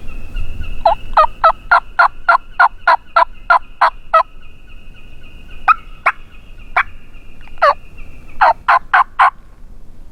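A hunter's turkey call giving hen yelps: a run of about a dozen evenly spaced notes, a few scattered sharp cutting notes, then a quick burst of four or five notes near the end, calling to a gobbler. A faint steady high tone runs underneath.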